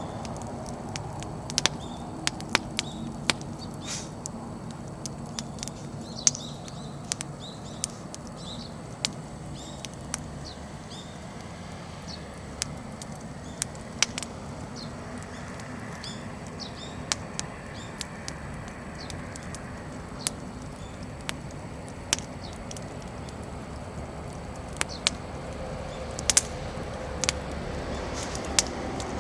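Firewood burning in an open fire, crackling with irregular sharp pops, while small birds chirp faintly, most often in the middle stretch.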